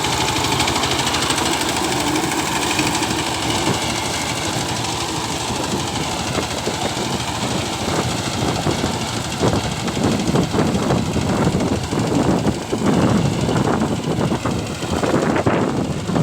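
Power tiller's single-cylinder diesel engine running with a rapid, uneven knocking, the knocks becoming more distinct from about six seconds in.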